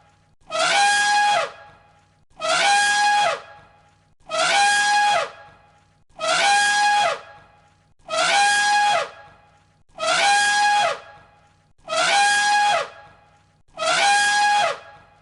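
An elephant trumpeting, the same call repeated eight times about every two seconds. Each call lasts about a second, holds one pitch and drops at its end.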